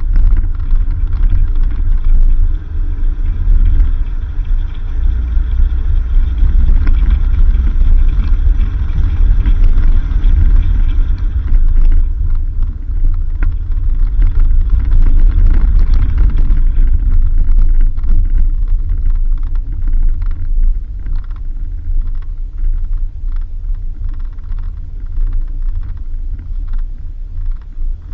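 Vehicle driving on a dirt road: a heavy, steady low rumble of tyres and body over the rough surface, with scattered knocks and rattles in the second half.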